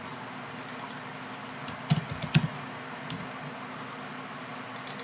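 Keys being typed on a computer keyboard in scattered clicks, with a louder cluster about two seconds in, over a faint steady hiss.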